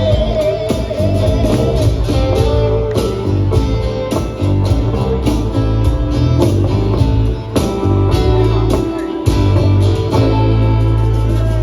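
Live band playing the instrumental end of a song on acoustic guitars, bass guitar and hand percussion in a steady rhythm. Near the end the playing settles onto a final held chord that rings on.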